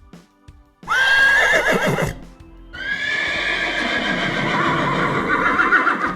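Two loud animal calls: a short, high, wavering one about a second in that drops away at its end, then a longer one that holds on to the end.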